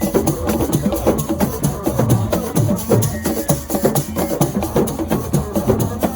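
Assiko percussion music playing a fast, dense, unbroken rhythm of drum strokes with a rattling, shaker-like edge.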